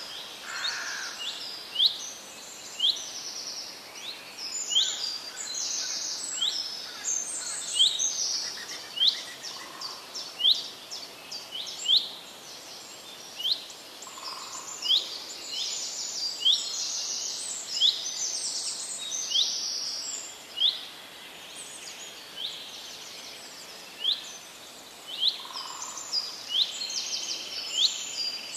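Songbirds singing: a continuous run of short, high chirps and quick trills from several birds, over a faint outdoor hiss.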